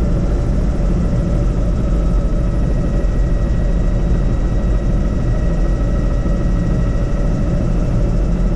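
Helicopter in flight: a steady, loud rotor and engine drone with a thin, high, constant whine over it.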